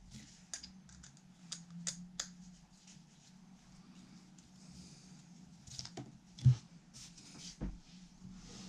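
Light clicks, taps and rustles of hands working with small parts and tools on a guitar being assembled, with one louder knock about six and a half seconds in, over a faint steady low hum.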